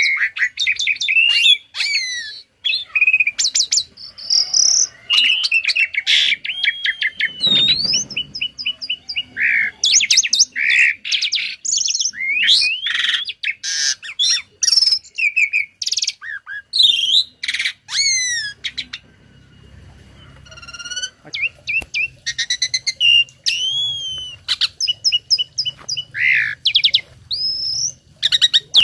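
Tame jalak (starling) singing a long, varied song of loud whistles, rapid chirp runs and rising and falling sweeping notes, with borrowed phrases mimicked from other birds mixed in. The song pauses briefly about two-thirds through, then resumes.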